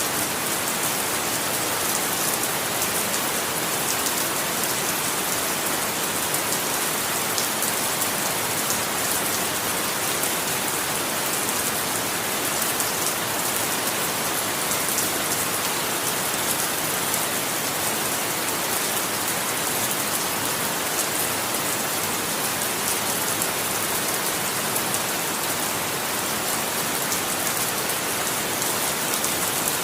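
Steady rain falling on a surface, an even hiss of many fine drop patters with no rises, breaks or thunder.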